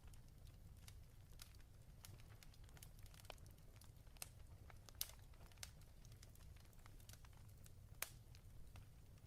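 Fireplace crackling quietly: scattered sharp pops and snaps over a low steady rumble, the two loudest pops about five and eight seconds in.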